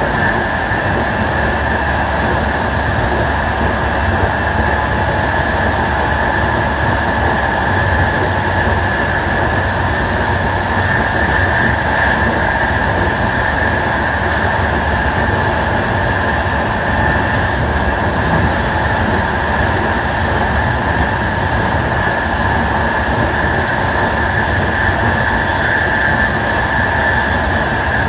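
Passenger train carriage running steadily along the line, a constant rolling noise of wheels on rail with a steady high hiss over it.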